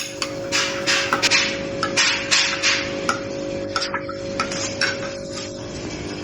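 A spoon stirring milk in a glass, clinking and scraping irregularly, busiest in the first three seconds and sparser after.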